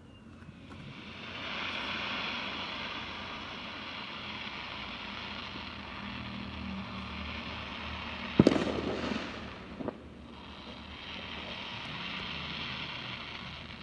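Fireworks display: long spells of crackling hiss from firework effects, with one sharp loud bang about eight and a half seconds in, then more crackling near the end.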